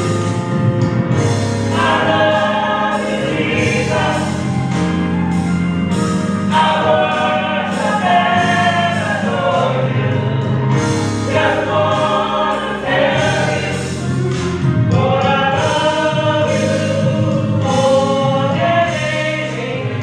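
Gospel music: a choir singing over an accompaniment of steady bass and chord notes.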